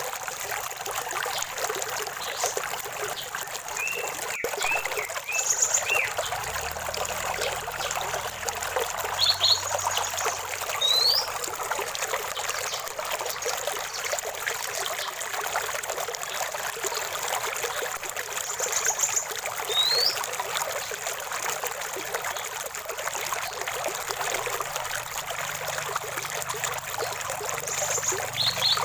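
Small stream or spring water trickling and splashing steadily, with birds calling now and then over it: short rising chirps and a few quick trills.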